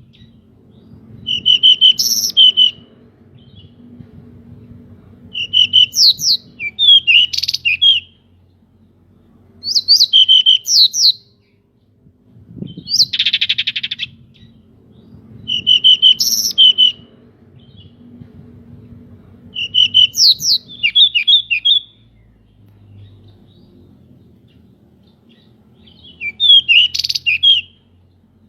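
Pied bushchat (decu) singing: short bursts of sweet, quick song phrases repeated every three to four seconds with pauses between. About halfway through, one harsh, buzzy note comes just before a phrase.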